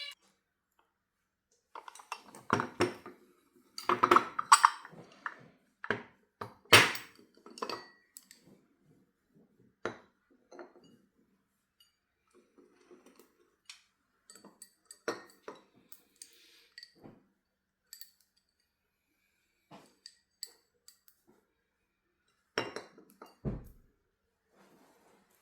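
Ceramic teacups being handled: a run of clinks and taps, busiest in the first third, then sparser ones, and a dull thump near the end as a piece is set down.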